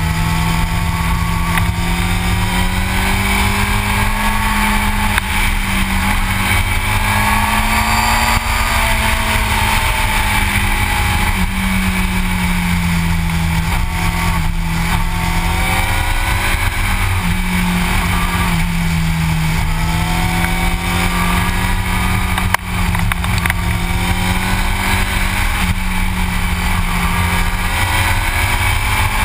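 Yamaha R6's inline-four engine running at road speed, its pitch rising and falling gently several times, under a steady rush of wind and road noise on the bike-mounted microphone.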